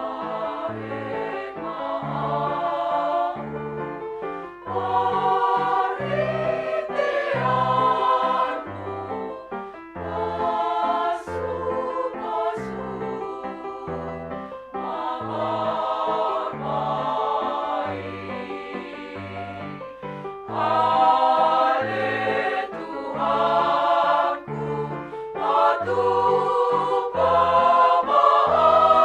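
Women's choir singing a hymn over instrumental accompaniment with a steady bass line.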